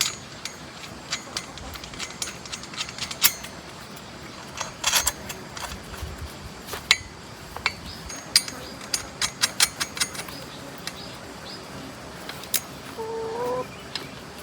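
Irregular metallic clinks and clicks of hand tools working on metal tiller parts, with a brief rising squeak near the end.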